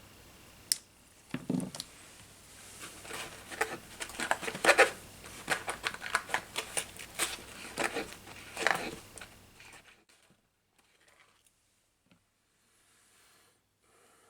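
Small tools and drone-frame parts handled on a workbench: a busy run of clicks, taps and scrapes. A steady low background hum cuts off suddenly about ten seconds in, leaving faint scattered sounds.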